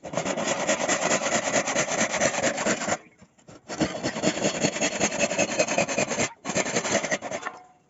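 Wood being abraded by hand with rapid rubbing strokes, such as filing or rasping a joint, in three bouts with two short pauses.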